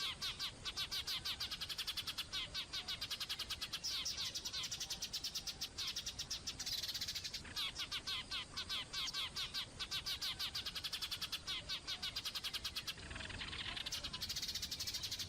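Small songbirds chirping in a fast, continuous run of short high-pitched notes, with the calling changing character near the end.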